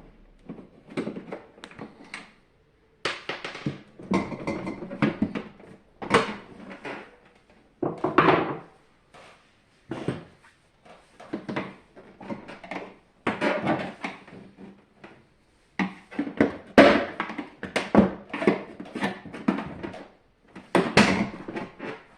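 Irregular clatter, clicks and knocks of hands and tools working on a dehumidifier's plastic casing during disassembly, coming in bursts with short silent gaps.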